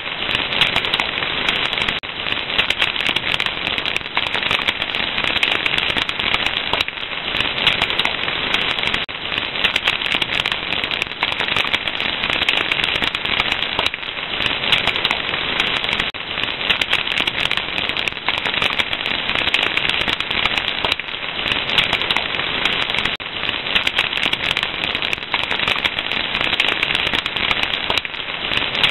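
Wood fire crackling steadily, a dense run of small pops and snaps.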